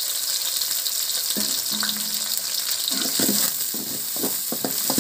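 Sliced shallots, garlic and green chillies sizzling steadily in hot oil in a kadai. In the second half a metal ladle scrapes and knocks against the pan as they are stirred.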